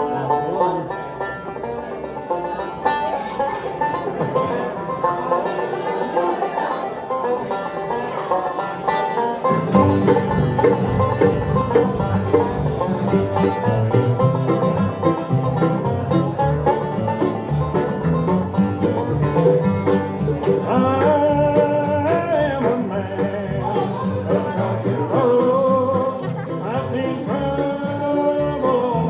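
Live bluegrass band playing, led by banjo with guitar picking behind it. Lower instruments come in about ten seconds in and fill out the sound.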